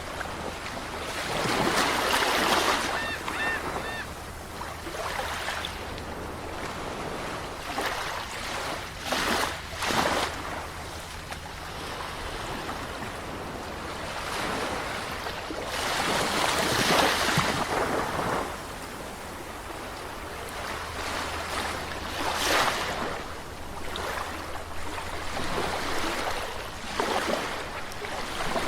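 Calm sea waves washing in, a steady rush of surf that swells and eases every several seconds as each wave comes in. A faint short call repeats about three times early on.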